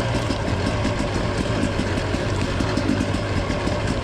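Dirt bike engine running at a steady, low throttle while riding a trail, under a constant rush of noise.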